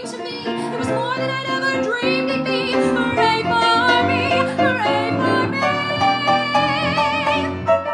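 A woman singing a musical-theatre song with instrumental accompaniment, closing on a long held note with wide vibrato near the end.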